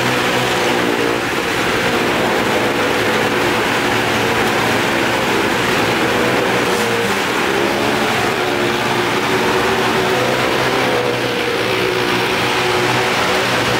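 Car engines and a motorcycle engine running hard and steady as they circle the wooden wall of a wall-of-death drum, their pitch drifting up and down with the laps.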